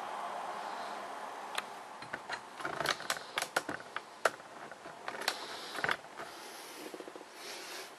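Irregular sharp clicks and taps of hard plastic being handled, coming thick between about one and a half and six seconds in.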